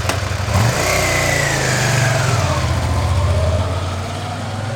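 V-twin motorcycle engine running just after starting, revving up about half a second in and dropping back toward idle over the next few seconds. It is running on one cylinder: the front cylinder is misfiring from water in its spark plug hole.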